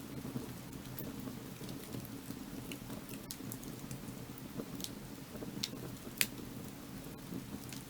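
Firewood burning, crackling steadily with scattered sharp pops; the loudest pop comes about six seconds in.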